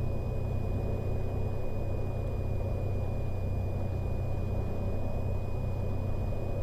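Cessna 182's piston engine idling steadily, heard through the aircraft intercom as an even low hum, with a faint steady high-pitched tone on top.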